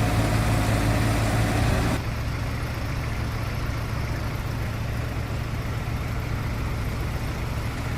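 Diesel engine of a small Kubota crawler excavator running steadily. About two seconds in, the sound changes abruptly from an even hum to a rougher rumble.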